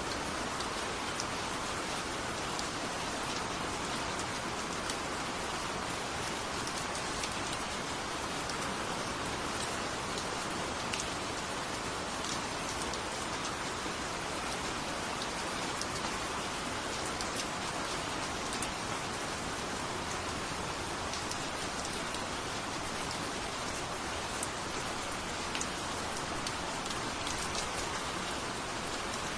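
Steady rain falling: an even hiss with scattered sharper ticks of individual drops landing.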